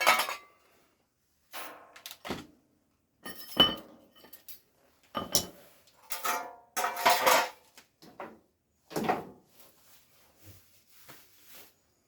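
Metal hand tools and parts clinking and clattering as they are handled, picked up and set down, in a series of separate knocks and rattles a second or two apart.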